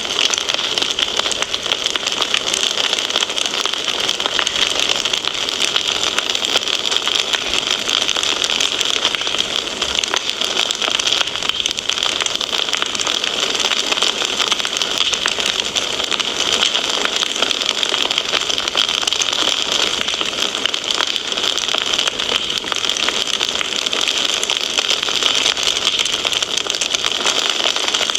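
Wood fire crackling: a dense, steady stream of small pops and snaps over a constant hiss.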